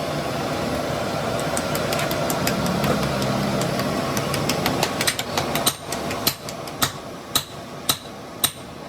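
An engine runs steadily and falls away about six seconds in. Over it come metallic knocks that start faint and grow into a run of sharp, ringing strikes, about two a second, in the second half.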